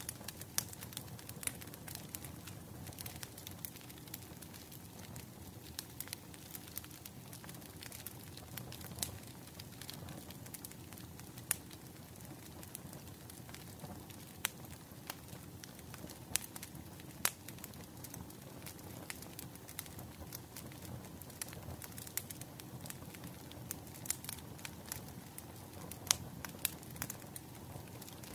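Wood fire crackling: irregular sharp pops and snaps, a few louder ones, over a steady low rumble of the burning fire.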